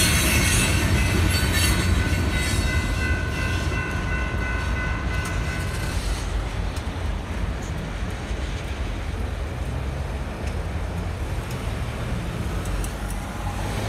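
Freight train cars rolling past with a steady low rumble. A high, steady wheel squeal rides over it for about the first six seconds, then stops while the rumble carries on.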